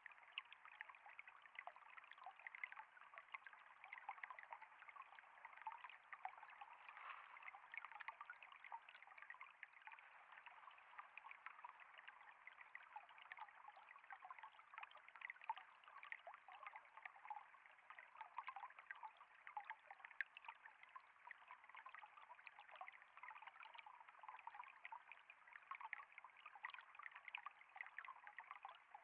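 Faint, steady trickle of flowing water: a continuous patter of small splashes without pause.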